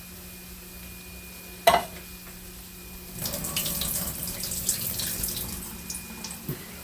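A single sharp clank, then about three seconds of liquid splashing into a sink as canned green beans are drained. A steady low hum runs underneath.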